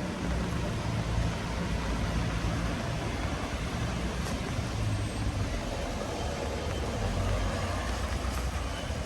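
Steady hiss of rain on a wet street with a low rumble of road traffic underneath.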